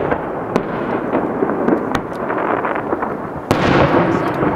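Aerial fireworks shells bursting in quick succession: a dense rumble of bangs and crackling, with a loud sharp bang about three and a half seconds in.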